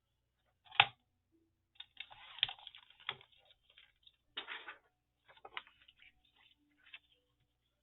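Craft materials, paper and a sheet of acetate, being handled. A sharp click comes about a second in, then rustling with scattered clicks and taps.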